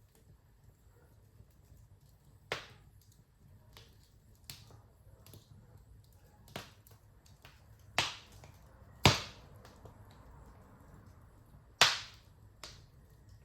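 Wood fire in a fireplace crackling, with sharp pops at irregular intervals over a faint low steady rumble; the loudest pops come about eight, nine and twelve seconds in.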